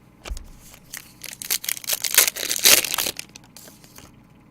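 Plastic trading card packaging being torn open and crumpled: a run of crackly crinkling and tearing that builds over a couple of seconds, loudest near the middle, then stops.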